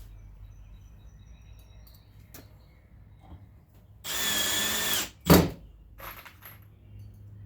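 Power drill driving a 1.25-inch deck screw in one steady whining burst of about a second, followed right after by a single sharp knock. A few light handling clicks come before and after.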